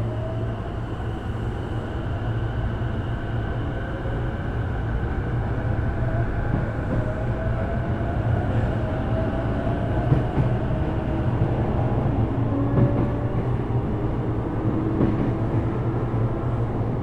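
Sotetsu 12000 series electric train running, its Mitsubishi IGBT-VVVF inverter and traction motors whining in thin tones, one rising in pitch over the first several seconds, over a steady low rumble of the wheels on the track.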